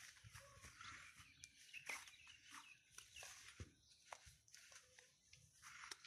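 Faint birdsong: many short, high chirps and quick downward-sweeping calls, scattered and overlapping.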